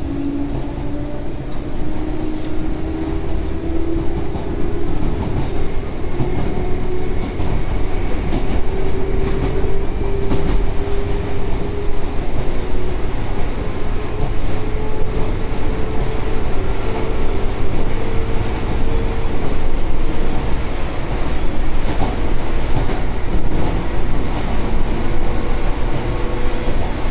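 Echizen Railway electric train running, heard from inside the car: a steady low rumble of wheels on track under a motor whine that climbs slowly in pitch as the train gathers speed.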